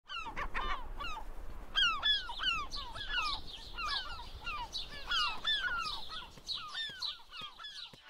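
A flock of birds calling: many short calls, each falling in pitch, overlapping several a second and thinning out near the end.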